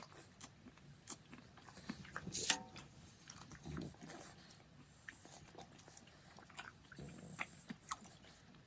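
Quiet, scattered small clicks and rustles of a nougat bar being unwrapped and bitten into. A pet dog gives a short whine about two and a half seconds in.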